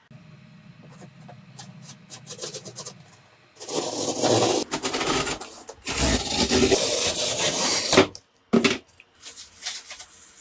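Coarse scraping or rasping on a hard surface, in two long loud spells starting about three and a half and six seconds in, with scattered clicks and knocks around them.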